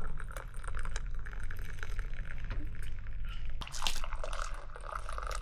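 Dripping and trickling liquid with an irregular patter of small clicks, and a louder sharp clatter a little under four seconds in.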